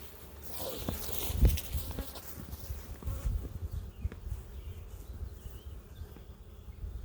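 Honey bees buzzing around an opened hive, with knocks and scrapes of hive handling and a brief hissing rush about a second in.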